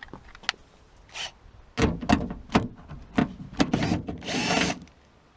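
Tools and door parts being handled inside a car door: a few sharp clicks, then a close run of knocks and clanks, and a short rasping scrape near the end.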